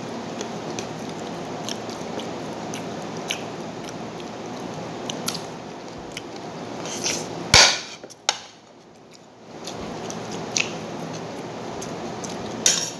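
Close-up eating sounds of a person chewing a mouthful of rice and noodles taken up by hand, with small mouth clicks throughout and a sharp knock about seven and a half seconds in.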